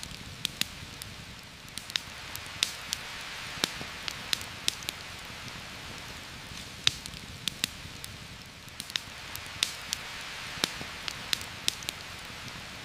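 Heavy rain falling steadily, a constant hiss, with a campfire crackling over it in irregular sharp pops, roughly one or two a second.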